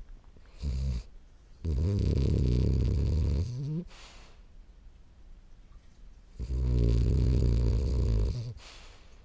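A 10-month-old French bulldog snoring in its sleep: two long snores of about two seconds each, a few seconds apart, with shorter breaths before and after them.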